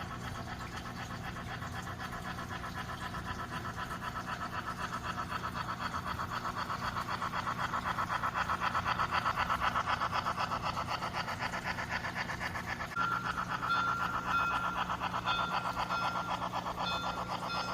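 HO scale model of a Pennsylvania Railroad HH1 2-8-8-2 Mallet steam locomotive running, its sound system giving fast rhythmic steam chuffing over a low steady hum. About two-thirds of the way in, a higher tone comes in, sounding in short repeated pulses.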